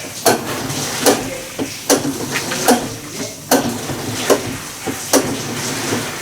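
Hitachi BeatWash BW-D8KV top-loading washing machine running with a loud, regular knocking about once every 0.8 seconds, with weaker knocks between, over a steady churning hiss. The abnormal noise comes from a failed clutch, put down to overloading with laundry.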